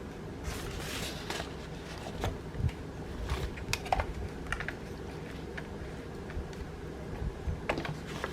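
Scattered small clicks and brief rustles of a cross-stitch kit's papers and packaging being handled, mostly in the first half, over a steady low hum.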